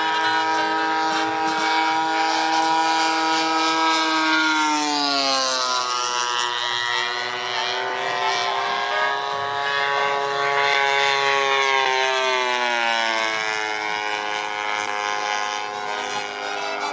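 Two-stroke DA-85 single-cylinder gas engine of a large-scale radio-controlled P-47 model plane running at high throttle in flight. Its pitch drops as the plane passes about four seconds in, climbs slowly as it comes back round, and drops again on a second pass near the end.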